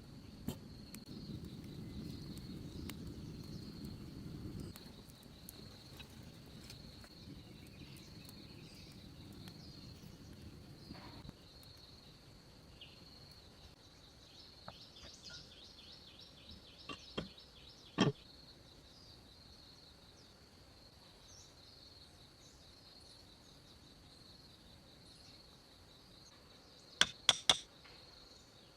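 Insects drone steadily on one high note. A low rumbling noise runs through the first third, and a few sharp knocks stand out: one loud knock about two-thirds of the way through and a quick run of knocks near the end.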